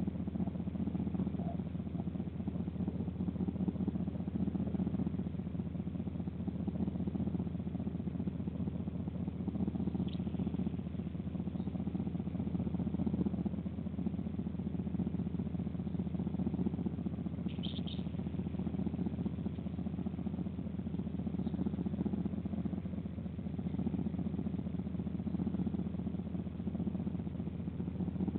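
A steady low rumble, with two short bird chirps, one about ten seconds in and one about eighteen seconds in.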